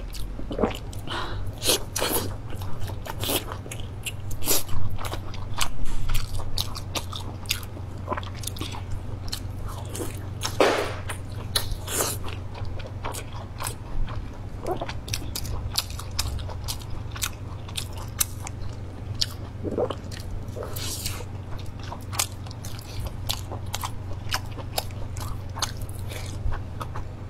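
Close-miked chewing and biting of braised pig large intestine: wet mouth smacks and clicks in quick, irregular succession.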